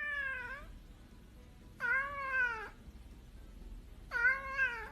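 A domestic cat meowing three times, about two seconds apart, each meow under a second long and rising then falling in pitch.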